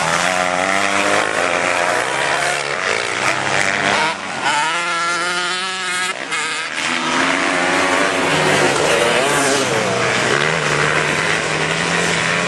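Racing motorcycles on a track, several engines running at high revs at once, their pitch rising and falling as they accelerate, shift and pass.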